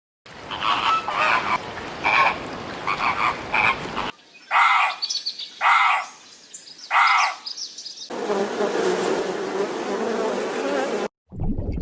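Frogs croaking in three cut-together clips: first a run of quick repeated calls, then three separate loud croaks about a second apart, then a steady dense chorus that cuts off suddenly near the end.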